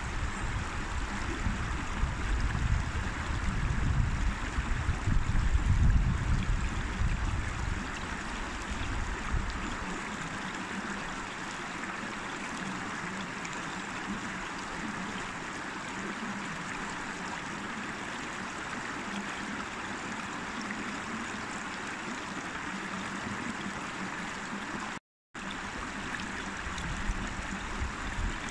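River water rushing and babbling steadily over rocks. A low rumble runs under it for the first ten seconds or so, then stops suddenly, and about 25 seconds in the sound cuts out completely for a split second.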